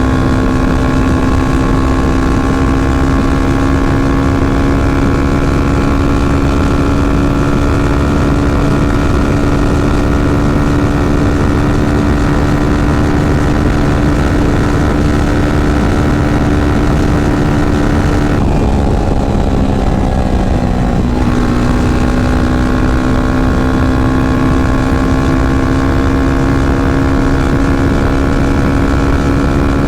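Yamaha FZ25's single-cylinder four-stroke engine under way, its note steady and climbing slowly with road speed. About two-thirds of the way through the rider eases off, and the revs fall for a couple of seconds. The engine then pulls again at a lower pitch that rises gradually.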